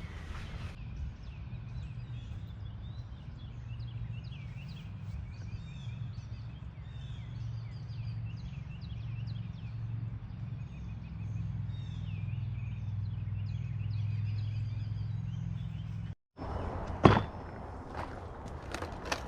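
Small birds chirping and singing over a steady low rumble. About sixteen seconds in the sound cuts out, and a couple of sharp knocks follow.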